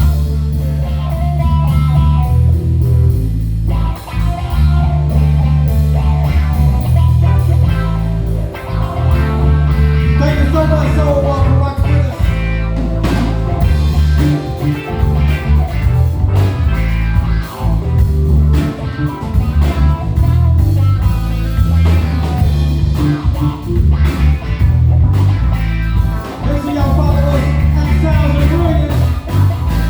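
Live band music: bass guitar, drums and keys playing a groove, with a heavy bass line and a melody line over it.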